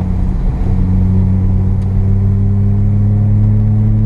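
Mazda FB RX-7's carbureted 12A two-rotor rotary engine heard from inside the cabin, pulling under throttle with the revs climbing slowly and steadily from about a second in.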